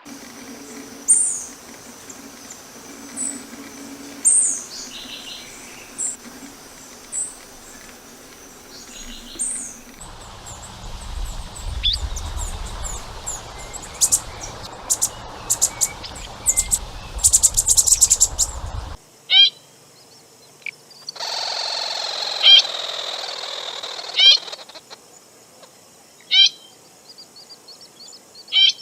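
Atlantic Forest songbirds calling, in several recordings spliced one after another. First come short high notes about once a second, then a spell of rapid chips and trills over a low rumble, then sharp repeated calls a couple of seconds apart.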